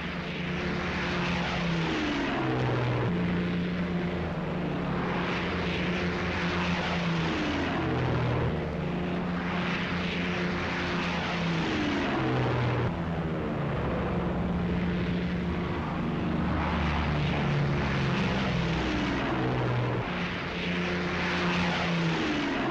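Piston-engined fighter planes' propeller engines droning steadily, swelling every few seconds with a falling pitch as aircraft pass.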